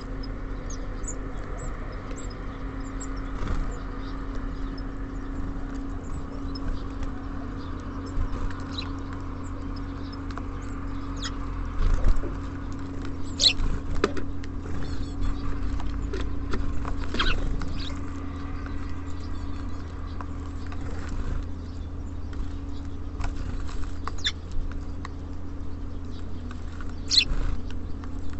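Small songbirds at a feeder: scattered short high chirps and sharp taps and knocks of birds landing and pecking on the feeder, the loudest knocks about twelve seconds in and again near the end. A steady low hum runs underneath.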